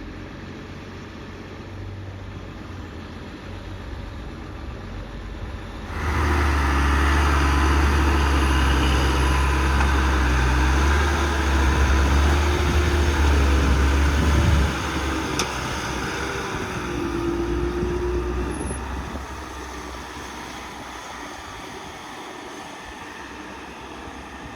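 Heavy diesel engine running steadily. About six seconds in it comes up sharply in level with a wavering whine over the rumble, holds for about eight seconds, then drops back and settles to a steady run.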